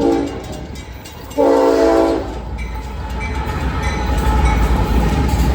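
Train horn sounding a short blast, then a longer blast of about a second, a chord of several steady tones. After it the low rumble of a train rises.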